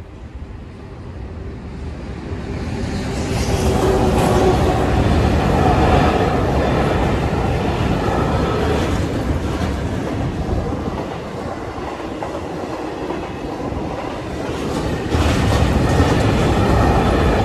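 Transfer train of new ICNG intercity train sets passing close by over a level crossing. Its rail noise builds over the first few seconds, stays loud, eases a little midway and swells again near the end.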